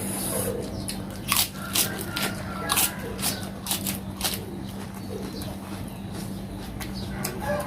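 Shell of soy-marinated shellfish being bitten and cracked open, a run of sharp crunching cracks between about one and four and a half seconds in.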